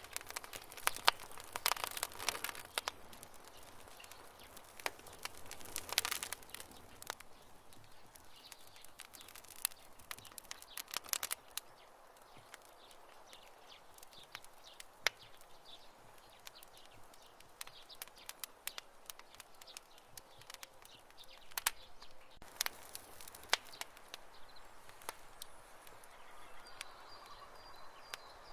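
Campfire crackling: irregular sharp pops and snaps, some in quick clusters, over a faint hiss. A thin high steady tone joins near the end.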